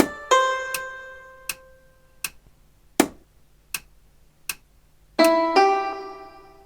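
Instrumental playback of a melody on a keyboard-like sound: three quick notes that ring and fade, then five sharp ticks evenly spaced about three quarters of a second apart, like a metronome keeping the beat, then two last notes near the end that ring out and fade.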